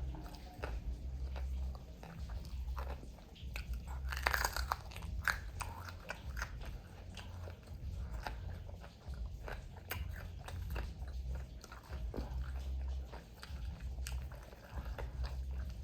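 A person biting into and chewing crunchy fried chicken wingettes, with a steady run of crisp crunches.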